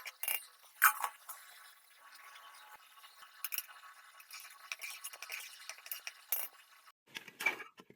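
Metal utensils clinking against dishes: a few sharp clinks, the loudest about a second in, over a faint steady hiss that cuts off suddenly near the end.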